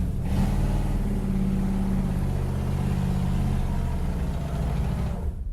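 Ford Fairlane 500's V8 engine running steadily with a low, even rumble, stopping abruptly near the end.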